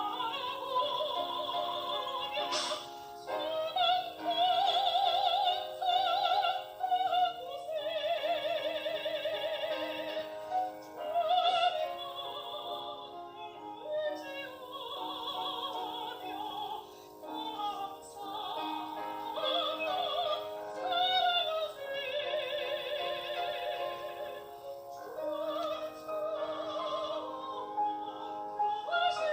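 Soprano singing a Korean art song in operatic style, long held notes with wide vibrato in phrases a few seconds long, over sustained accompaniment.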